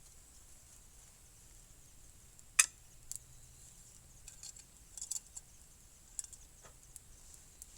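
Scattered sharp clicks and light taps, one much louder than the rest about two and a half seconds in.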